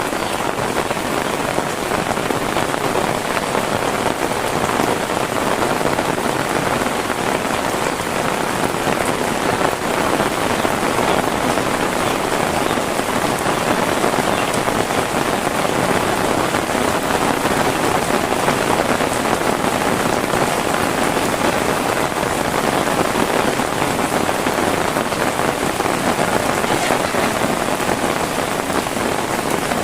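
Heavy rain falling steadily on surfaces, a dense, even hiss of drops.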